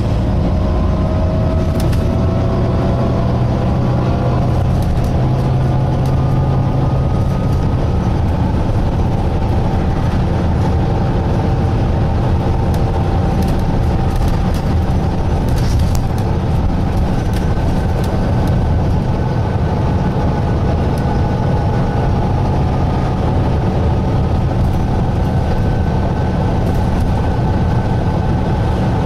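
Volvo B9TL double-decker bus heard from on board while under way: the steady drone of its six-cylinder diesel, with a whine that rises in pitch over the first several seconds and then holds steady. Occasional light clicks and rattles come through.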